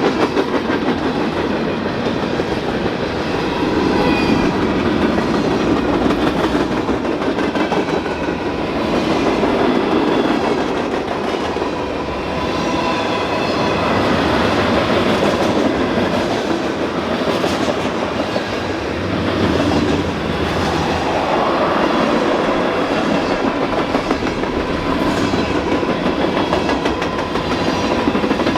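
Freight train rolling past on the main line: a steady, loud noise of steel wheels running on the rails, swelling and easing slightly as the cars go by.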